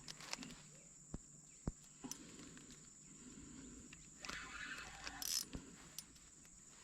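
Faint scattered clicks and knocks of prawn-fishing tackle being handled in a small boat, with a rustling patch about two-thirds of the way in, over a steady high-pitched insect drone.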